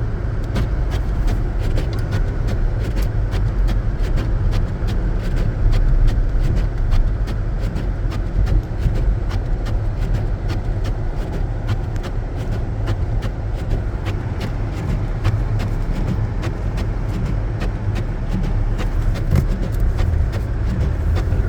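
Inside the cabin of a 2014 Jeep Grand Cherokee with its V6, driving through deep snow: a steady low rumble of engine and tyres, with many small ticks and knocks scattered all through it.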